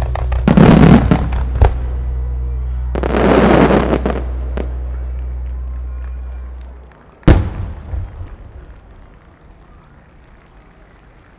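Aerial fireworks shells bursting, with two long rushes of crackling over the held closing notes of the accompanying music, which fade out about seven seconds in. A single sharp boom follows, with echoes rolling away after it.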